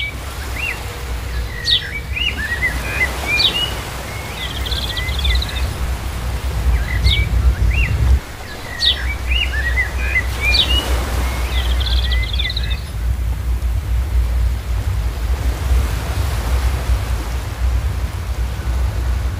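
A small songbird singing short chirping phrases, one run of song early on and a similar run from about seven to thirteen seconds in, over a steady low outdoor rumble that dips for a moment about eight seconds in.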